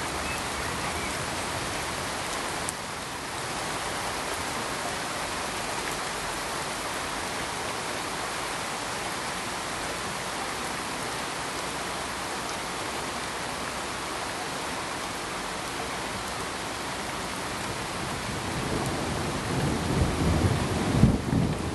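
Steady hiss of rain, with a low, uneven rumble of thunder building in the last few seconds.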